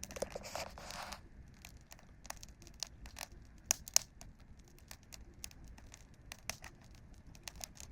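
Campfire wood crackling: irregular sharp pops and snaps, with two louder pops a little under four seconds in and a brief rustle in the first second.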